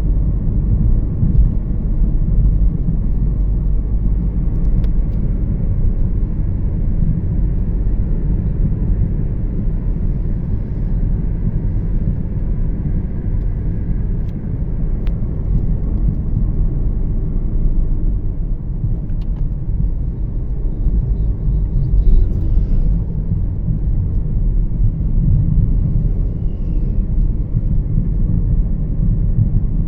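Steady low road and engine rumble of a Toyota Yaris 1.5 being driven at cruising speed, heard from inside the car.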